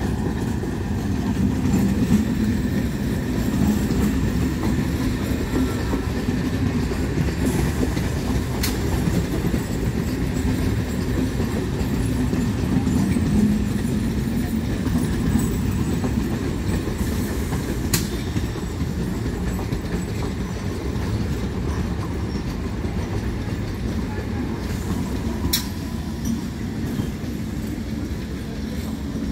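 Suburban electric local train running past close by: a steady low rumble of wheels and motors with clickety-clack over the rail joints. A few sharp metallic clicks stand out.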